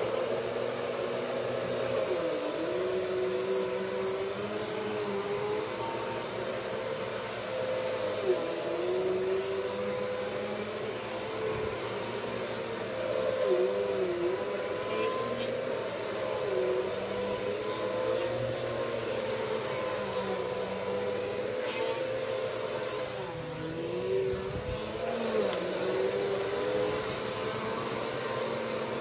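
Vacuum cleaner running steadily with a high whine, its lower motor note dipping and recovering now and then.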